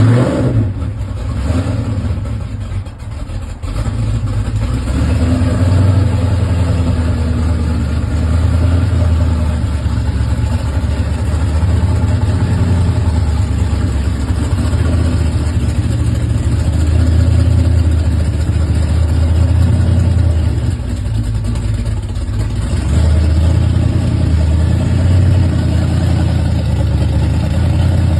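Loud exhaust rumble of classic hot rod engines running at low revs, steady and deep, with a brief drop in loudness about three seconds in.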